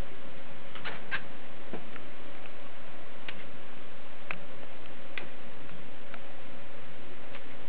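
Scattered small, sharp clicks from a cockatiel, about seven at uneven intervals, over a steady hiss and a faint steady hum.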